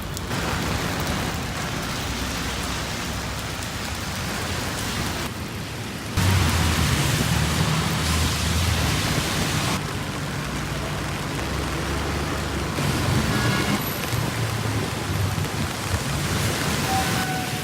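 Heavy rain pouring down in a steady hiss. About six seconds in, a low rumble joins it and the sound gets louder.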